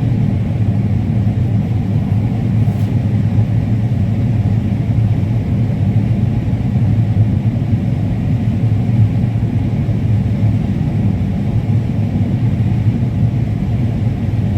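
Combine harvester running, a steady low drone that holds an even level throughout.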